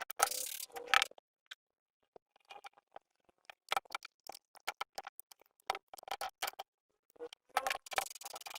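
Irregular metallic clicks, taps and clinks of hand tools on generator engine parts, in clusters with silent gaps between.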